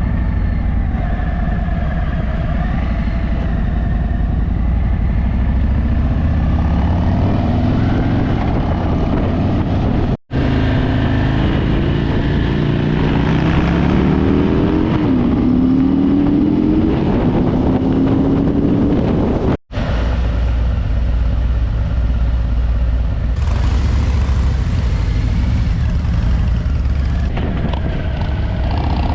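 Harley-Davidson V-twin motorcycle running down the road, its engine note rising in pitch a few times in the middle of the stretch as it accelerates. The sound drops out for an instant twice.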